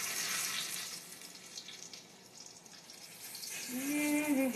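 Coated green tomato slices sizzling in shallow oil in a frying pan, a steady hiss that is stronger in the first second or so and then dies down. A woman's voice sounds briefly near the end.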